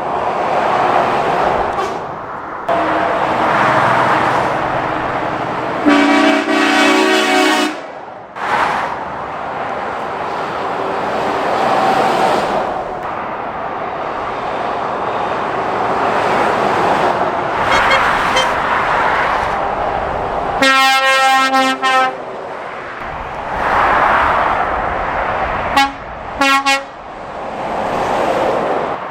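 Lorries passing on a dual carriageway, a repeated swell of tyre and engine noise as each goes by, broken by horn blasts: a long blast about six seconds in, another shorter one about twenty-one seconds in, and two quick toots near the end.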